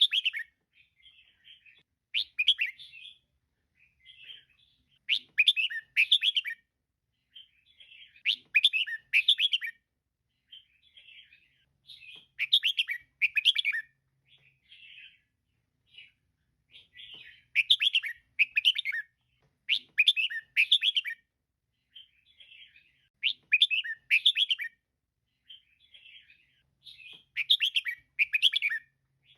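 Female red-whiskered bulbul calling: loud bursts of quick, bright chirps repeated every one to three seconds, with softer twittering between them.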